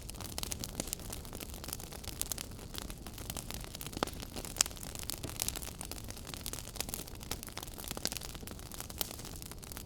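Wood fire burning in a fireplace: a steady low hiss with frequent irregular crackles and sharp pops, the loudest a little after four seconds in.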